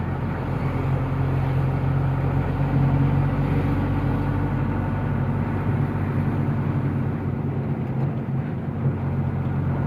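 Truck engine running steadily with road noise while driving, an even low hum that holds its pitch.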